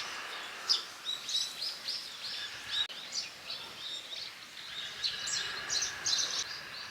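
Small birds chirping: a busy run of quick, short high notes repeated throughout.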